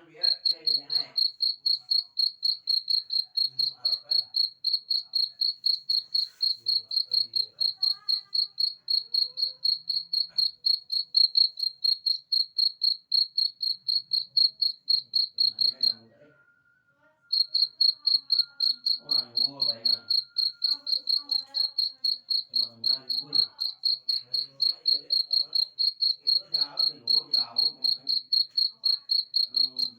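Cricket chirping in a steady, even pulse train at one high pitch, several pulses a second, breaking off for about a second and a half around the middle before resuming. Fainter, lower warbling calls sound underneath.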